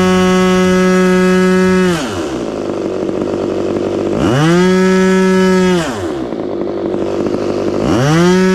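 Magnum XLS 61 two-stroke glow engine on an RC Cessna 182 running at high throttle, then throttled down to idle about two seconds in, revved up again for a second and a half, dropped back to idle, and revved up once more near the end. This is a ground run-up on a carburetor that was stuck and has just been cleaned.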